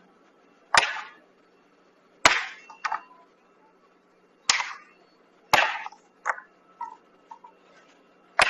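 A series of sharp, hard knocks: about seven loud strikes at irregular intervals, each with a short ringing tail, and a few fainter ticks between them.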